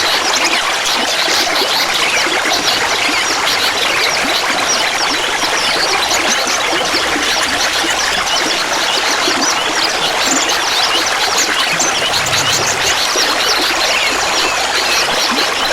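Clear water trickling and babbling steadily, a dense patter of many small splashes with no let-up.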